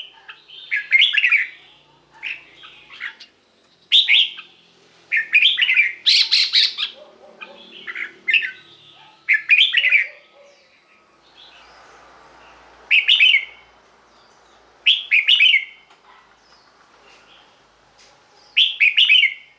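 Red-whiskered bulbul singing: short, bright whistled phrases, a dozen or so, coming about a second apart at first, then with longer pauses between them.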